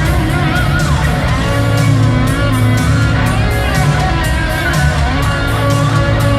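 Rock band playing live, loud and continuous: distorted electric guitars, bass and a steady drum beat, with a lead line that bends and wavers in pitch.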